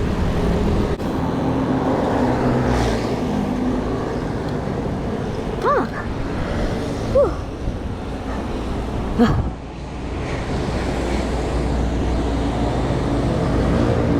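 Road traffic heard from the roadside on a ride: a steady rumble of car and motorbike engines passing. Three brief rising-and-falling tones break through, about six, seven and nine seconds in.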